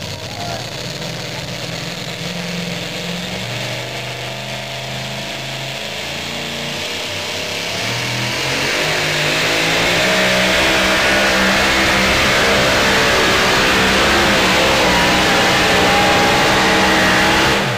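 Supercharged engine of a super modified two-wheel-drive pulling truck, running at low revs and blipping for several seconds. About eight seconds in it builds to a loud full-throttle run, which drops away sharply near the end.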